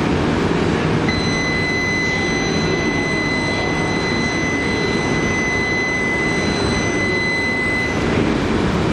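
Steady low rumble of Shinkansen trains standing at the platform. About a second in, a steady high electronic tone starts over it, holds for about seven seconds, then cuts off suddenly.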